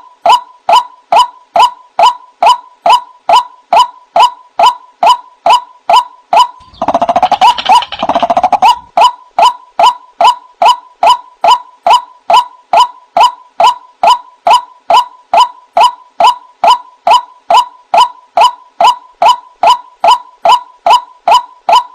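White-breasted waterhen (ruak-ruak) call played as a bird-lure recording: short notes repeated monotonously at about two and a half a second. A noisier, rougher passage with louder notes comes about seven seconds in and lasts about two seconds.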